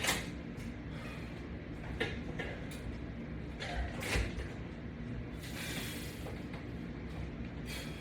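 Faint clicks and creaks of resistance-band bench-press equipment being worked, a few short knocks scattered over a steady low hum.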